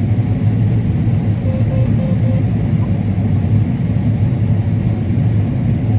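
Combine harvester running steadily while cutting corn, heard as a loud, even low rumble from inside the cab.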